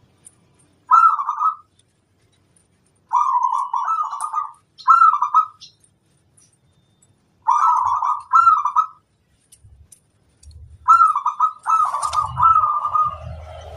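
Zebra dove (perkutut) singing its cooing song in short, rippling phrases, about five of them with silent gaps of one to two seconds. Near the end the phrases run together over a low rumble.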